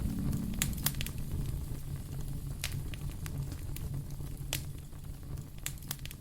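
Wood fire in a fireplace crackling, with a few sharp pops at irregular intervals over a low steady rumble of the flames.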